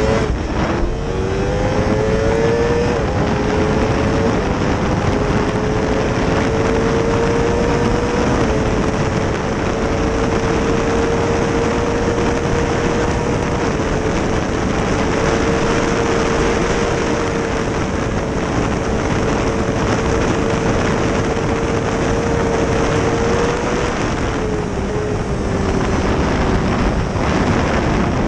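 A 2005 Honda CBR600RR's inline-four engine at high revs under hard acceleration, shifting up several times in the first few seconds, then held at a steady high pitch and easing off a little near the end. A dense rushing noise of wind runs under it.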